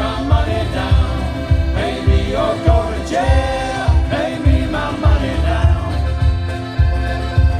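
Male shanty choir singing in harmony over a steady beat, live.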